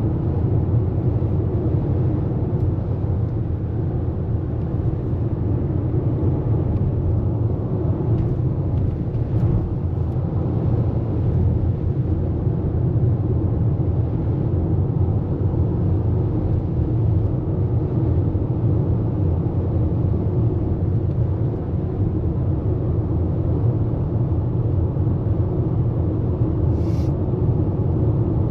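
Steady low rumble of road and engine noise inside a moving car's cabin at cruising speed, with a short high hiss near the end.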